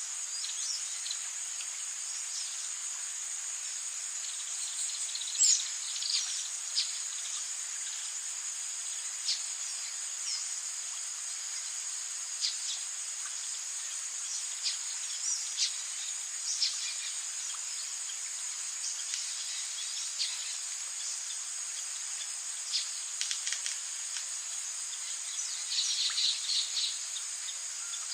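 Rainforest ambience: a continuous high insect drone with scattered short bird chirps and calls over it, the loudest call about five seconds in and a quick run of calls near the end.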